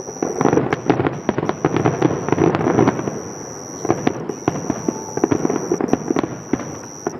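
Fireworks finale: a dense, rapid barrage of cracks and pops from many shells going off in quick succession, heaviest in the first three seconds, easing briefly, then picking up again.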